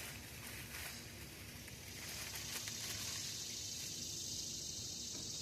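Faint steady high hiss with a few light clicks and rustles from a new knock sensor wiring harness being handled.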